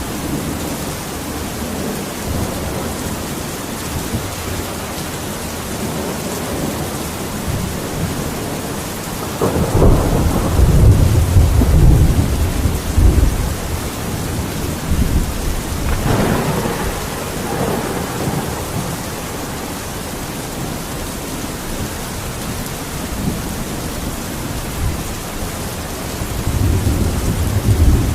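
Steady heavy rain with thunder rolling through it. A long low rumble comes about ten seconds in, a sharper crack follows around sixteen seconds and rolls away, and a further rumble builds near the end.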